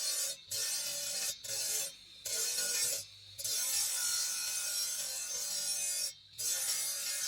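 Marble being filed by hand: rasping scraping strokes of uneven length, broken by short pauses, several in the first few seconds and one longer stroke later on.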